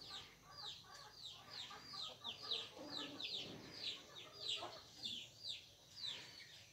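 Faint bird calls: a steady run of short, high chirps, each falling in pitch, about two or three a second, with a few lower calls in between.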